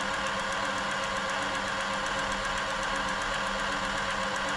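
Silver 1139 sewing machine, a Pfaff-built domestic machine, running steadily under its motor with a regular mechanical ticking, its mechanism being run to work fresh oil in.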